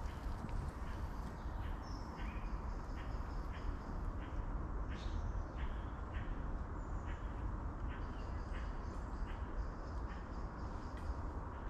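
A bird giving short calls again and again, a few a second at an uneven pace, over a steady low background rumble.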